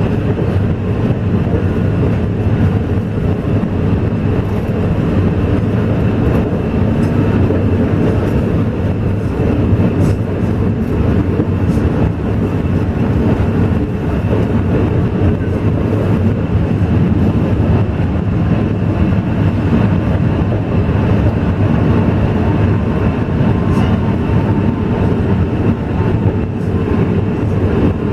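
Narrow-gauge Alishan Forest Railway train running, a steady unbroken rumble of wheels and running gear with a faint constant higher hum and a few light clicks.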